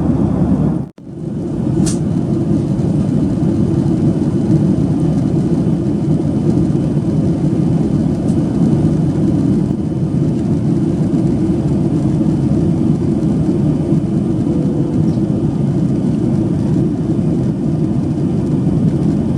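Steady in-flight cabin noise of a Boeing 737-800: a low rumble of engines and airflow past the fuselage. It drops out for an instant about a second in, then returns.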